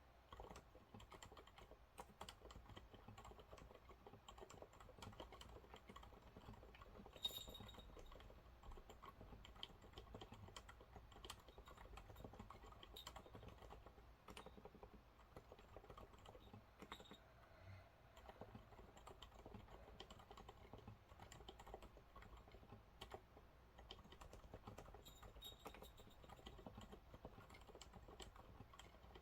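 Continuous typing on a Monsgeek MG108W keyboard with TTC silent brown switches: a quiet, uneven stream of muted key presses, with one sharper click about seven seconds in.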